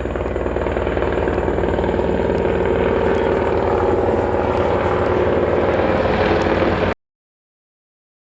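A helicopter flying overhead, its rotor beating steadily with a fast pulsing chop. The sound cuts off abruptly into dead silence about seven seconds in.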